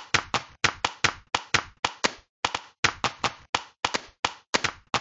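Hands clapping rapidly and sharply, about four claps a second, often in quick pairs, with a short echo from a small room.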